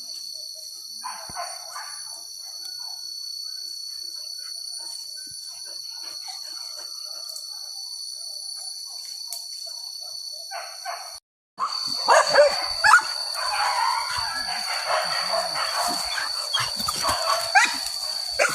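Hunting dogs barking and yelping, a few scattered yelps at first, then a dense, louder chorus of barks and yelps in the second half after a short break. A steady high-pitched drone runs underneath throughout.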